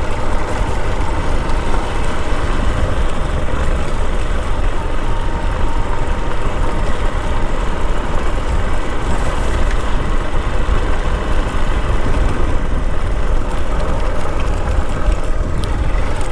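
Motorcycle riding along at steady speed: engine running under a dense, heavy low rumble, with no clear changes in pace.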